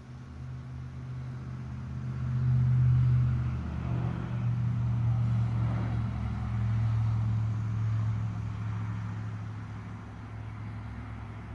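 A motor vehicle's engine running with a low hum, growing louder over the first few seconds and dropping slightly in pitch about three and a half seconds in, then easing off near the end.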